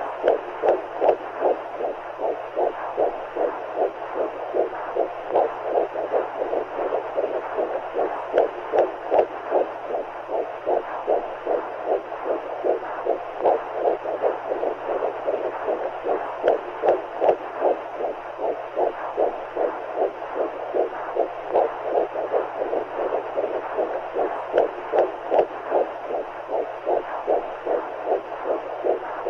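Womb-sound track for soothing a baby: a whooshing heartbeat pulsing about twice a second over a steady rushing noise like fluid in the womb, with a low hum beneath.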